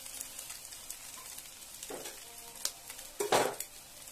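Chopped onions frying in oil in a pan with a soft, steady sizzle. A few light taps are scattered through it, and a louder crack comes about three seconds in as an egg is broken over the pan.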